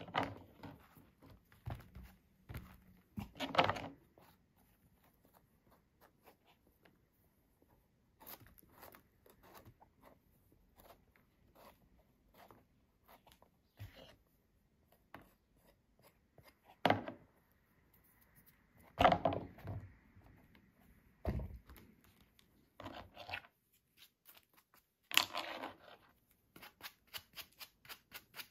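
Mushrooms being handled and sorted by hand: scattered soft rustles and clicks, with a few louder tearing or crunching sounds as pieces are broken off.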